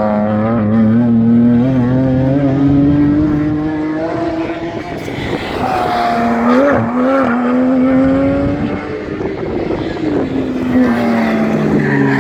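Race car engine running hard on the track, its pitch climbing steadily under acceleration, with a break in the pitch about four and a half seconds in and a dip near the end before it climbs again.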